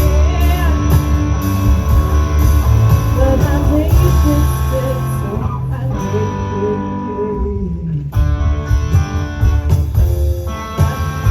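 Live rock band playing a passage between sung lines: guitar over a heavy low bass, with a pitch sliding down about two-thirds of the way through.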